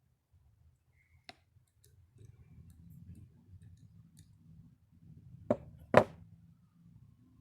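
Small parts or tools clicking as they are handled: a faint tick about a second in, then two sharp clicks about half a second apart near the end, the second louder.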